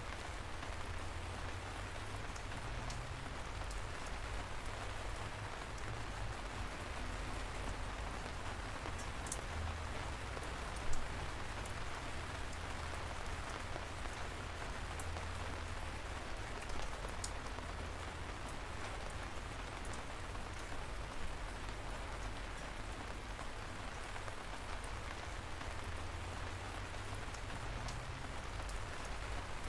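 Light rain falling steadily in an even hiss over a low rumble, with scattered single drops ticking sharply, the loudest about eleven seconds in.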